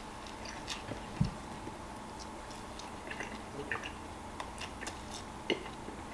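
A person biting into and chewing a fast-food burger close to the microphone: faint, irregular wet mouth clicks, with a low thump about a second in.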